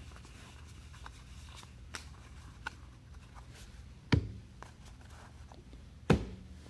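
Trading cards being handled at a table: faint rustles and small clicks, with two louder knocks about four and six seconds in.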